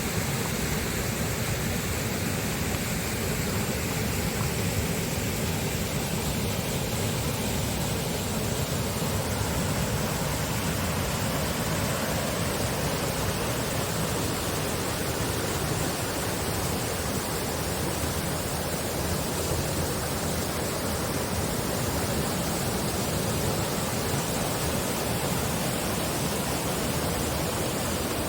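Waterfall rushing close by, a loud steady roar of falling water.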